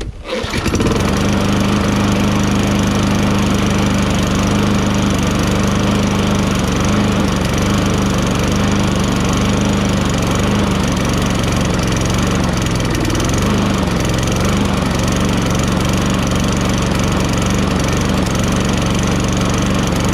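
Toro Recycler lawn mower's 6.5 HP Tecumseh single-cylinder engine catching within the first second and then running steadily at speed, with a brief waver near the middle. The owner says it is sputtering a little because it has no gas or the gas is really dirty.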